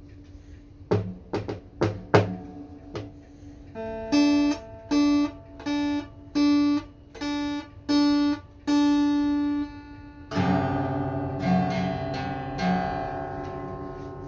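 Acoustic guitar playing an instrumental intro: a few plucked notes, then one note picked over and over about every 0.7 s for several seconds, then a full chord strummed about ten seconds in and struck twice more as it rings.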